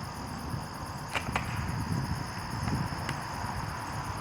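Crickets chirring steadily over a low outdoor rumble, with a few sharp clicks: two close together about a second in and one about three seconds in.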